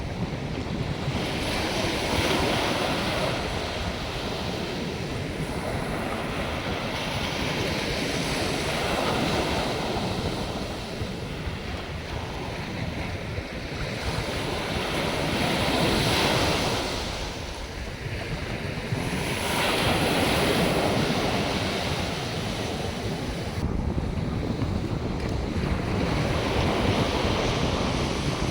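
North Sea surf breaking and washing up the beach, swelling and easing every few seconds, with wind buffeting the microphone as a low rumble.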